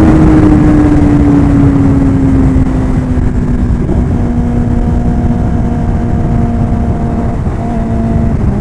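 Heavy wind rush over the microphone at speed, with the 2023 Kawasaki Ninja ZX-10R's inline-four engine note sliding slowly down in pitch over the first few seconds and then holding steady as the bike slows from high speed.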